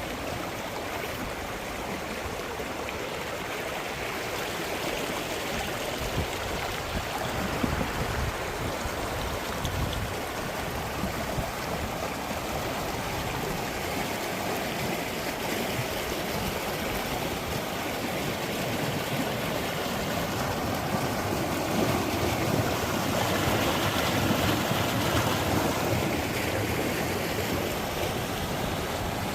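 Spring-fed stream water rushing steadily, an even unbroken rush that grows a little louder about two-thirds of the way through.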